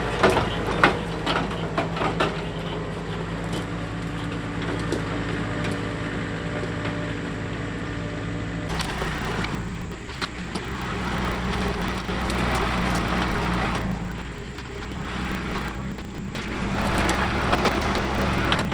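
John Deere 4052R compact tractor's diesel engine running while its grapple grabs brush, with branches snapping and cracking during the first few seconds. The engine sound changes abruptly about halfway through.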